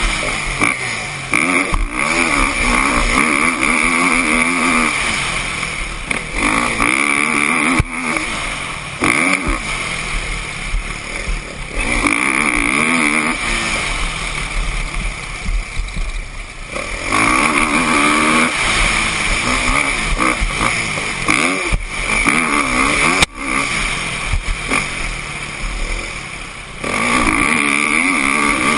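Kawasaki KX450F motocross bike's single-cylinder four-stroke engine being ridden hard, its note rising and falling again and again as the throttle is opened and eased off every few seconds.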